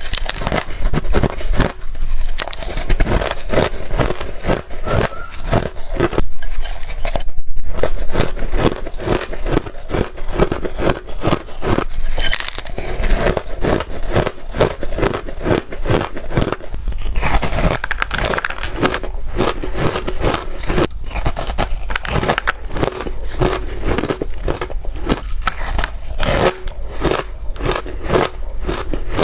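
Close-miked crunching of shaved ice being bitten and chewed: a dense, continuous run of small crisp crackles and crunches, with a brief pause about seven seconds in.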